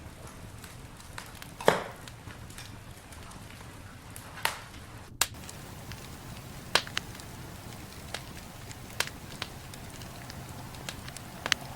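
Campfire burning: a low, steady hiss broken by irregular sharp crackles and pops of burning wood, the loudest pop about two seconds in.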